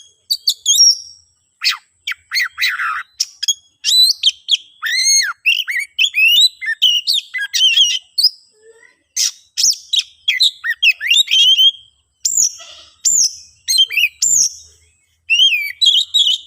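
Oriental magpie-robin (kacer) singing a loud, fast, unbroken run of varied whistles, sweeping chirps and sharp chips, with short breaks about 12 and 15 seconds in. This is the male's agitated fighting song, the kind that provokes a rival.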